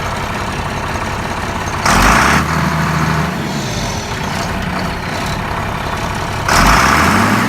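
Straight-piped John Deere Gator utility vehicle engine running with a loud open exhaust. It is revved briefly twice, about two seconds in and again near the end, the pitch climbing with each rev.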